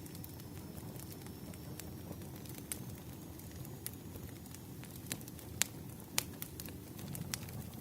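Bonfire burning: a steady low rumble with irregular sharp crackles and pops of burning wood, two louder pops a little past halfway.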